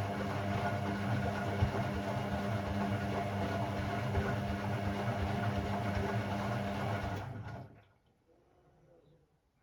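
Hoover Sportswear 1300 washing machine running with a steady, even hum and some rushing noise, which cuts off about seven and a half seconds in.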